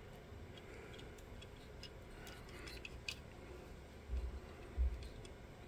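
Quiet handling noise: a scatter of light clicks and ticks, as of a small diecast toy car being turned in the hands, followed about four and five seconds in by two dull low bumps.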